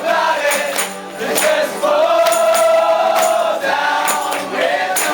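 Live band playing a song: a singing voice holds long, wavering notes over the music, with sharp high percussion hits marking a steady beat.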